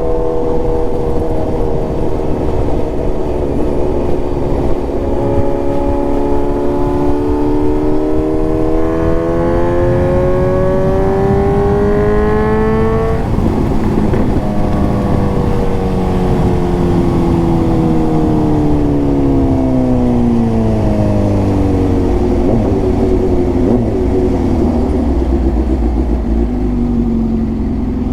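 Suzuki GSX-S750's inline-four engine through a full aftermarket exhaust (Ezaki header, SC Project silencer) with a remapped ECU, revs rising slowly and steadily for about thirteen seconds under acceleration. Then the throttle closes suddenly and the revs fall away slowly to a low steady level, with a low rumble near the end.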